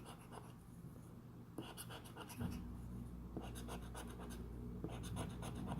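Faint scraping of a scratch-off lottery ticket's coating, in short bursts of strokes.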